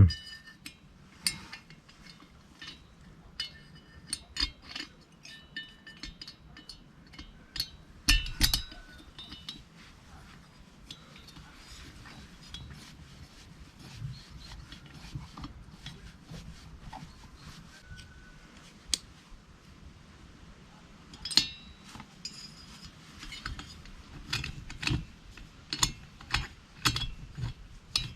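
Small metal parts and hand tools clinking and tapping as a chainsaw is worked on by hand. Scattered knocks, some with a short metallic ring, come in clusters and grow busier near the end.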